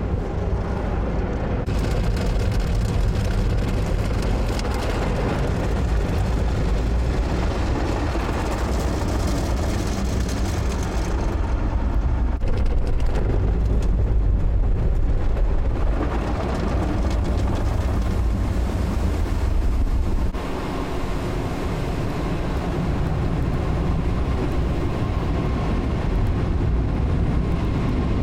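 Automatic tunnel car wash heard from inside the car: water spray and washing equipment working over the body in a continuous loud wash of noise with a heavy low rumble. The sound changes character in stages, about 2, 11 and 20 seconds in.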